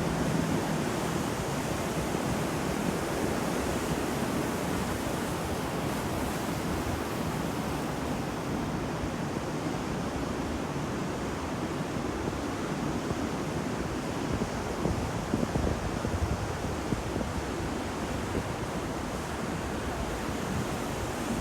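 Ocean waves washing onto a shore in a steady, continuous surf, with wind mixed in.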